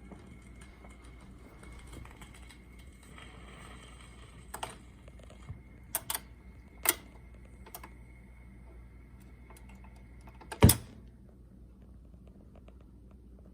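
Admiral console record changer working through its mechanism after the record ends: a faint steady tone, a run of sharp mechanical clicks, then one loud clunk about ten and a half seconds in, after which the tone stops.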